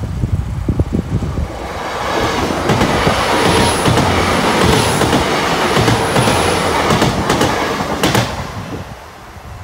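LNER Class 800 Azuma bi-mode train passing close by on its underfloor diesel engines: a rising rush of engines and wheels on rail with a faint high whine. It ends in sharp wheel clicks over the rail joints as the tail passes about eight seconds in, then fades.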